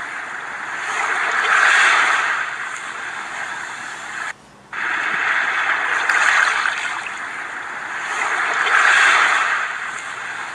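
Rushing sea-water noise that swells and fades every three to four seconds, like waves washing, and breaks off briefly about four seconds in.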